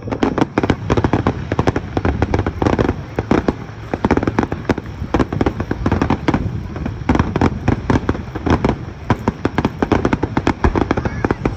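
Aerial fireworks in a rapid barrage: many shell bursts in quick succession, several a second, with booms and crackling.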